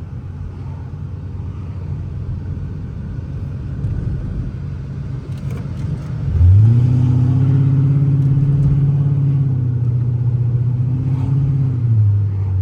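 Chrysler 300C's 5.7-litre HEMI V8 heard from inside the cabin: low road rumble, then about six seconds in the engine pulls up into a steady, loud drone that holds for around five seconds and eases off near the end.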